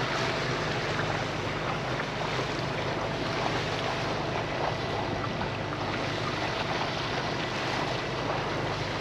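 A sailboat's engine running steadily while motoring, with wind on the microphone and water rushing along the hull.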